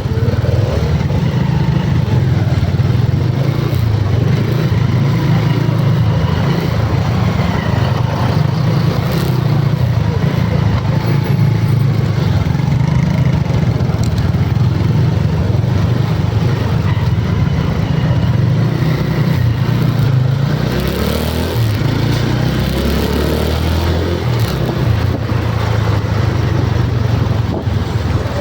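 A motor vehicle's engine running with a steady low rumble that deepens for a few seconds about twenty seconds in.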